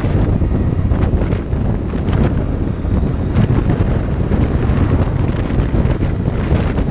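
Heavy wind buffeting the microphone while riding a motorcycle, a loud, steady low rumble that covers the engine.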